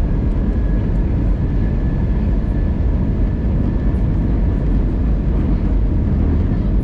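Steady cabin rumble of an Airbus A320neo airliner on descent: engine and airflow noise heard from inside the cabin, with a faint high steady whine.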